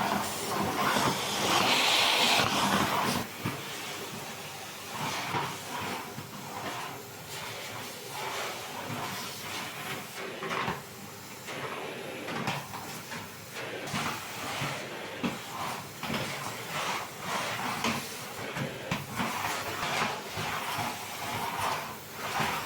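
Kitchen work sounds: a loud hiss for about the first three seconds, then irregular rubbing, knocks and clatter of items being handled.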